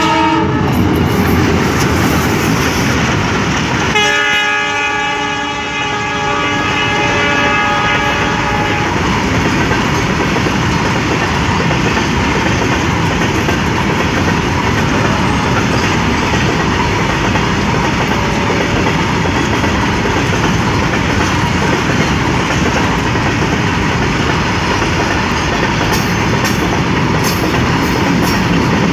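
Freight train passing at speed: the diesel locomotive's horn sounds for about five seconds a few seconds in, over a steady din of wheels clattering on the rails as a long string of open freight wagons goes by.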